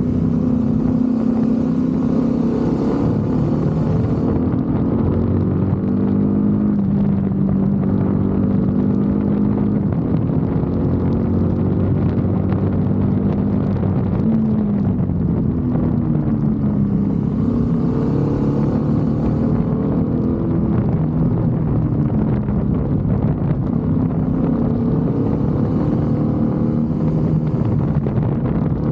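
BMW F 850 GS motorcycle's 853 cc parallel-twin engine running steadily, its pitch rising and falling a few times as engine speed changes.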